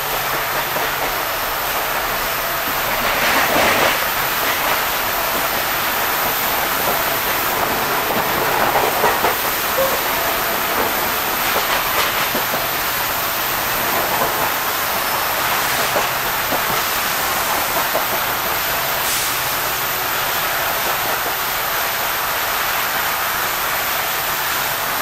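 Running noise inside an Indian Railways ICF sleeper coach in motion: a steady rushing of the wheels on the track, with a few sharp clacks and rattles now and then.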